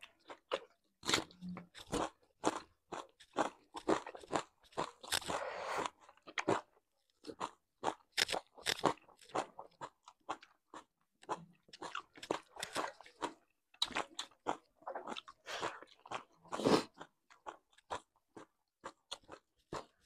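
Close-up mukbang eating sounds: two people chewing and biting pork and rice, with crunches and mouth clicks coming in quick, irregular succession.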